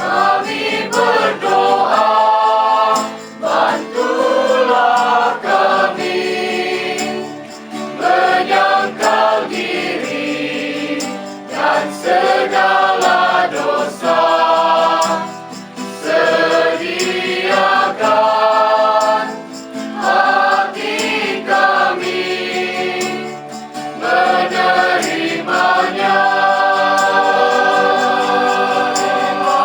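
A group of voices singing together like a choir, in sung phrases a few seconds long with short breaks for breath between them.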